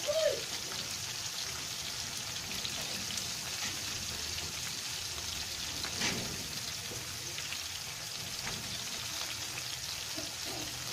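Anchovy fritters and a whole fish frying in a pan of hot oil: a steady crackling sizzle, with one louder pop about six seconds in. A brief voice-like sound is heard at the very start.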